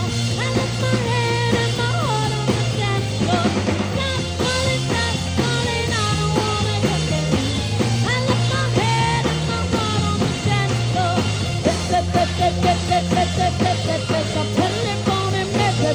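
Live rock band music, with electric guitar, bass and drums playing a fast, steady beat. Near the end a quick run of repeated notes sounds.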